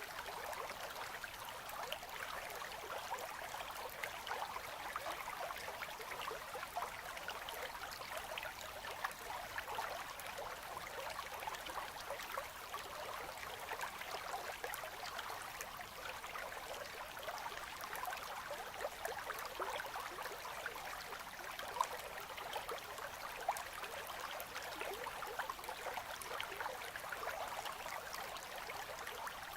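A slow winter river current running between ice, a steady gentle gurgle of flowing water with many small splashy trickles.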